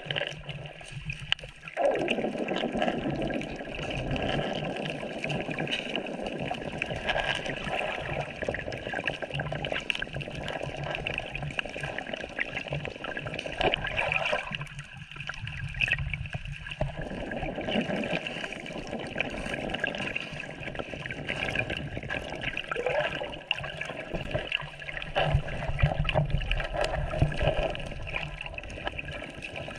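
Water running and trickling, with the lower part of the sound dropping out briefly twice.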